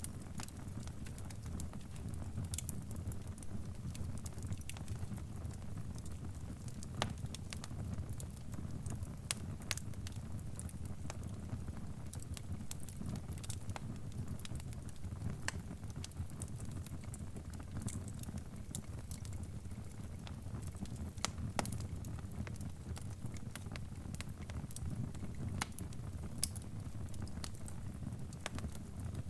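Crackling fire: a steady low rumble of flames with irregular sharp pops and crackles scattered throughout.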